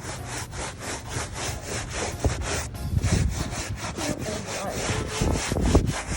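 Footsteps crunching in packed snow at a steady walking rhythm. Wind buffets the microphone as a low rumble a few times, about halfway through and near the end.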